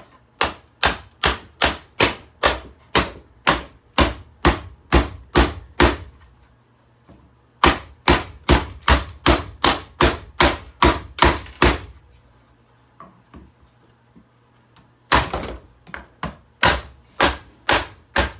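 Rapid repeated hammer blows on a Hoover vacuum cleaner, about two and a half strikes a second, in three runs broken by short pauses, as the motor is being broken open.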